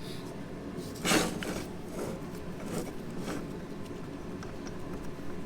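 Brief handling noises of engine parts being worked on: a short scrape about a second in, then a few softer knocks and rustles.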